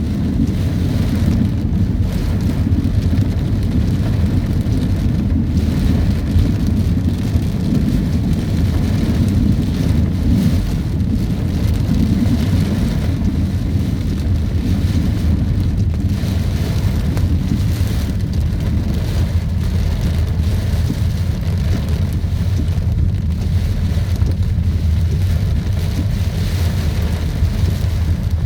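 Heavy rain in a strong wind: a steady hiss of rain over a loud, constant low rumble.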